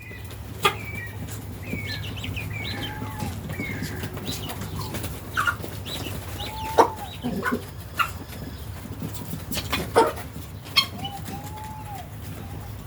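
Mixed flock of free-range chickens and guinea fowl clucking and calling, with scattered short sharp sounds over a steady low hum.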